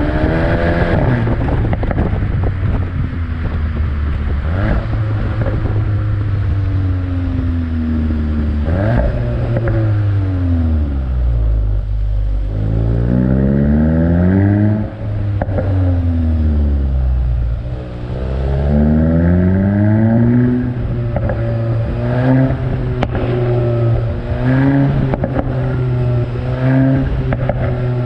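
The VW Golf 8 GTI's turbocharged 2.0-litre four-cylinder engine running under varying load, its pitch repeatedly rising as it revs up and falling away. A long fall comes about ten seconds in, and a series of short, quick rises comes near the end.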